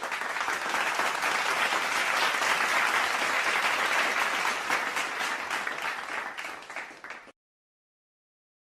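Crowd applause: many hands clapping at once. It fades away and stops about seven seconds in.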